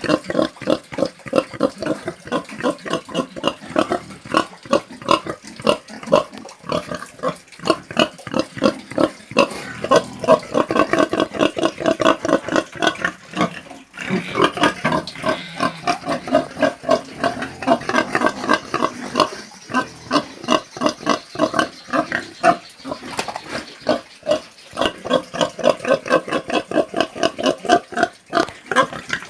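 Domestic pigs grunting in a rapid, continuous string of short pitched calls, with a brief break about fourteen seconds in.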